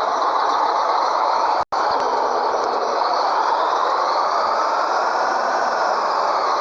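Scania 113H truck running under way with a bitrem trailer set: a steady, loud, noisy drone of engine and rolling with slow gentle rises and falls. There is a split-second dropout about a second and a half in.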